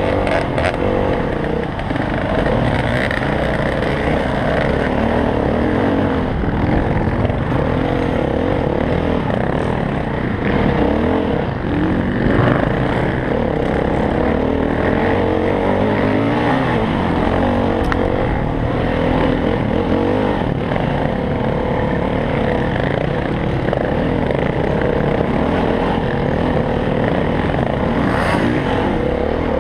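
Dirt bike engine ridden along a trail, revving up and down continually as the rider works the throttle, close to the microphone.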